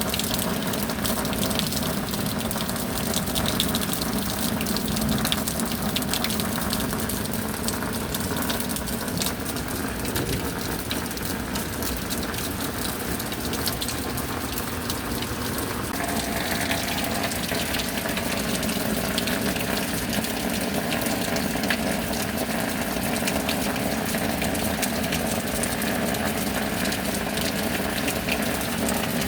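Heavy rain with water gushing and pouring, a steady rushing sound. A low steady hum runs underneath and changes pitch partway through.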